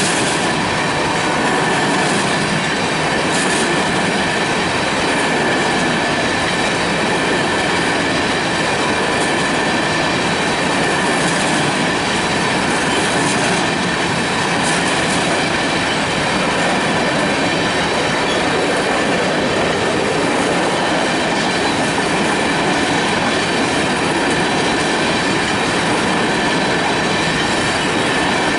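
Freight cars rolling past over a grade crossing, wheels clattering steadily on the rails, while the crossing's high-pitched Safetran Type 3 electronic bells keep ringing.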